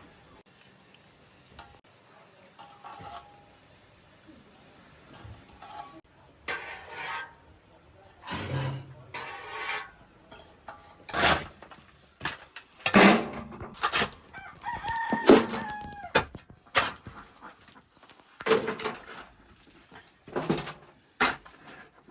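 Domestic poultry calling: after a quiet first few seconds, a series of loud calls and crows comes in quick succession through the second half.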